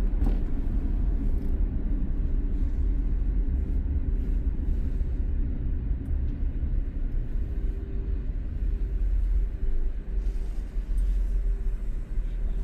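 Steady low rumble of a car driving, with engine and road noise heard from inside the moving vehicle.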